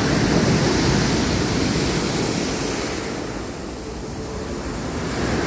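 Sea surf washing on the shore: a steady rush of waves that eases off about three and a half seconds in and builds again near the end.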